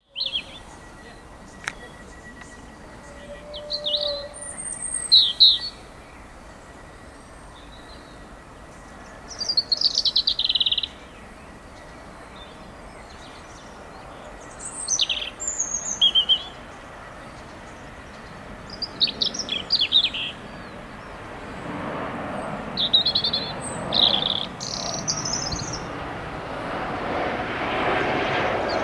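Small birds chirping in repeated short, high phrases. From about two-thirds in, the noise of an approaching Class 37 diesel locomotive builds steadily louder underneath.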